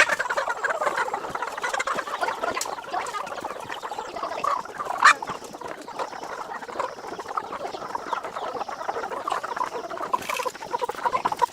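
A flock of chickens clucking and chattering together in a dense, continuous babble, with one louder rising call about five seconds in.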